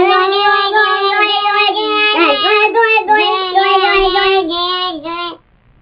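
A girl's voice held on one long, steady tone through a cupped fist pressed to her mouth, the pitch wobbling briefly around the middle and cutting off shortly before the end.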